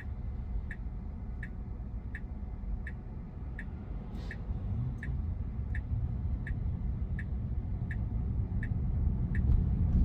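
Car turn-signal indicator ticking steadily inside the cabin of a Tesla Model Y, about one and a half ticks a second, over a low road rumble.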